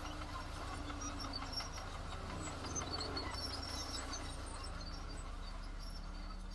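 Diesel engine of heavy earthmoving machinery running steadily with a low drone, with faint high chirps and ticks over it.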